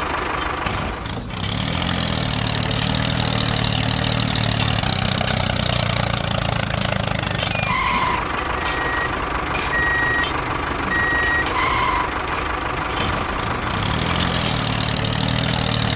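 Vehicle engine sound running steadily, with a short beeping tone, like a reversing alarm, sounding several times in the middle.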